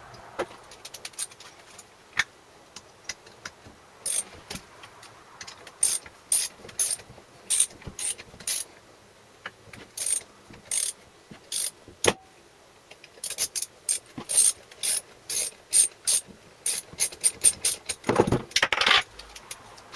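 Irregular short bursts of ratchet-like mechanical clicking, as of a hand tool being worked, with a louder rasping noise lasting about a second near the end.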